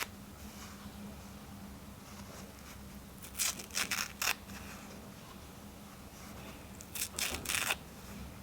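Paper towel being torn by hand in two short bouts of quick rips, about three seconds in and again near seven seconds. A faint steady low hum sits underneath.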